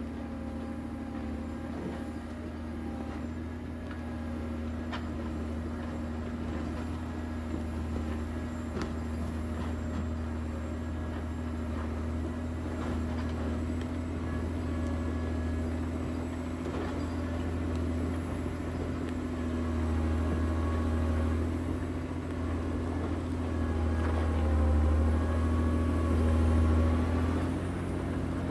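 John Deere 670 motor grader's diesel engine running as it works, a steady low drone with a constant hum above it, swelling louder a few times in the second half.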